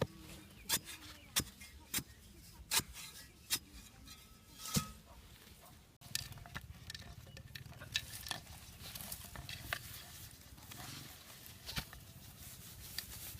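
A run of sharp knocks, roughly one every 0.7 seconds, then a steadier scraping and rustling with scattered clicks, from hands-on work with tools and materials.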